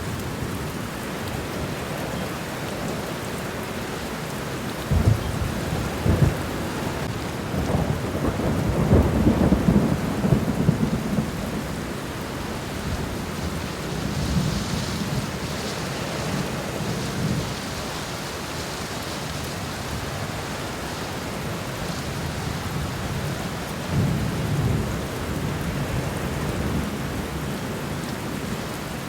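Steady rain falling, with low rumbles of thunder swelling in about five seconds in, loudest a few seconds later, and returning more softly in the middle and near the end.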